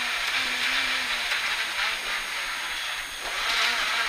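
Rally car engine heard from inside the cabin over road and tyre noise; it eases off in the middle and picks up again about three seconds in.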